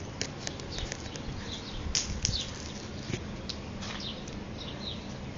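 Small birds chirping: many short, falling chirps repeated over a steady low background hum.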